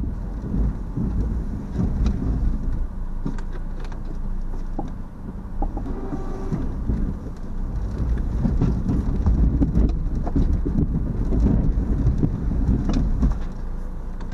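Dodge Neon plow car's engine running under load as it pushes snow, a low rumble that rises and falls.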